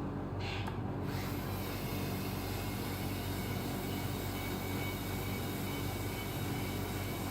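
Radio-controlled Scania model truck running with a steady low engine-like hum. About a second in, a thin high whine and hiss join it and continue.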